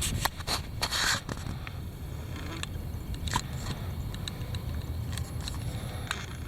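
Wind buffeting the microphone as a steady low rumble, with a burst of sharp scraping crackles in the first second and a half and scattered clicks after.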